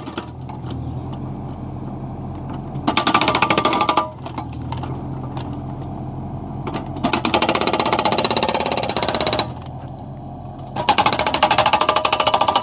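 Hydraulic stone breaker on a Kubota mini excavator hammering in three bursts of rapid, even blows, the first short, about three seconds in, then longer ones about seven and eleven seconds in. The excavator's diesel engine runs steadily between the bursts.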